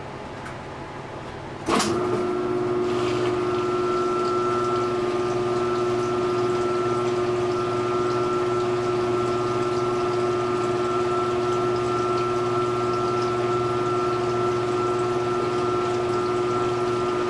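Speed Queen 8 Series top-load washer's motor switching on with a sharp click about two seconds in, then running steadily with a constant hum and rushing water, pumping water through the machine.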